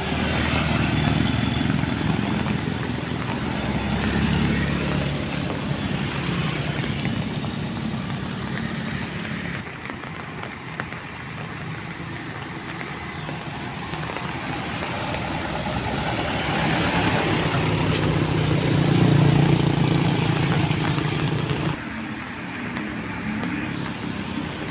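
Truck and vehicle engines running as traffic passes, with an engine drone that rises and falls. It swells about two-thirds of the way through, then drops off suddenly near the end.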